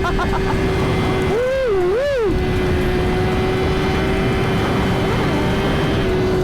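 Suzuki GSX-R1000 inline-four engine holding a steady highway cruise, with two quick revs rising and falling about a second and a half in, over heavy wind rush.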